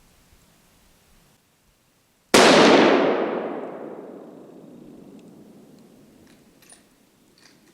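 A single deer-rifle shot about two seconds in, very loud and sudden, with a long tail that fades away over several seconds.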